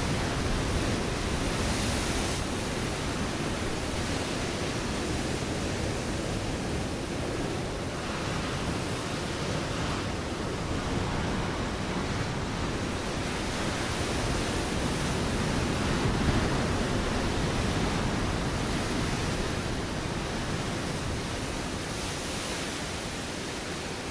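Ocean waves breaking on a rocky shore: a continuous wash of surf that swells a little midway and eases slightly near the end.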